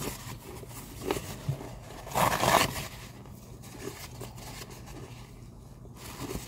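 A few crunches from chewing pieces of baked clay pot, with a loud half-second scraping rustle a little over two seconds in. Quieter rustling follows as a tissue is wiped over the lips.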